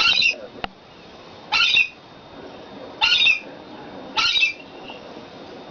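Pet parrot squawking: four short, harsh screeches, roughly one every second and a half.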